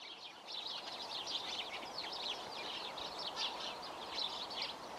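Small songbirds chirping, with many short, overlapping high calls in a busy, continuous chatter over a light background hiss.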